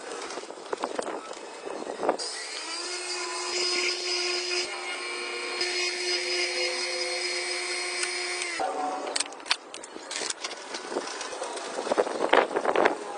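An electric power tool starts about two seconds in, runs at a steady speed for about six seconds and stops near the nine-second mark. Before and after it come scattered clicks and knocks of parts and tools being handled.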